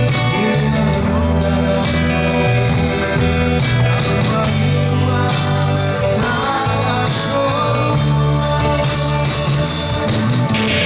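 Live band music: a song played on amplified guitar and bass, with singing.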